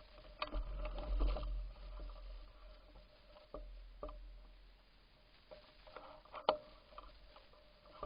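Bicycle rattling over bumps while ridden: a few sharp knocks, each with a brief metallic ring, over a faint low rumble. The loudest knock comes near the end.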